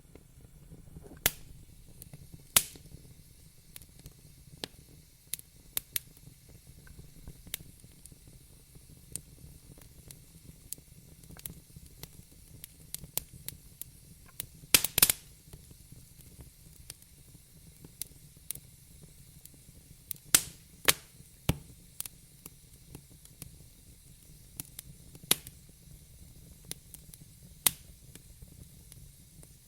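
Wood fire in a fireplace crackling: irregular sharp pops and snaps, the loudest in a quick cluster about halfway through, over a low steady rumble.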